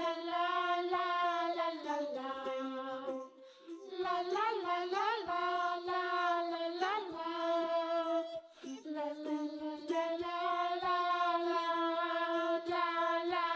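Background children's song: a high voice sings a slow melody of long held notes, some wavering, with no clear words.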